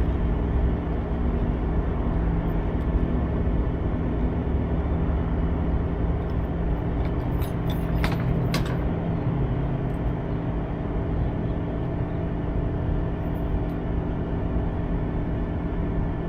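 Semi-truck diesel engine and road noise, a steady drone while driving, with a few brief clicks about eight seconds in.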